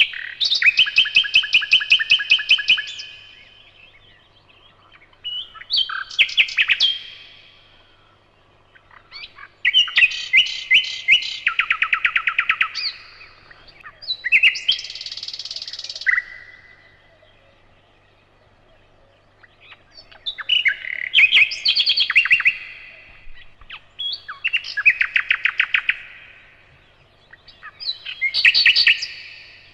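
A nightingale singing: about seven loud phrases, each a fast run of repeated notes, with short pauses between them.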